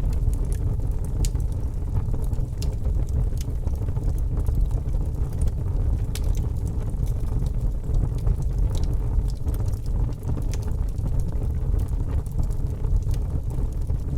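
Wood fire crackling, with sparse sharp pops and snaps over a steady low rumble of wind.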